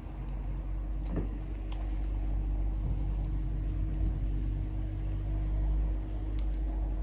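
A low steady rumble with a steady hum, like an engine or distant traffic, under a few short bird calls about a second in and again near the end.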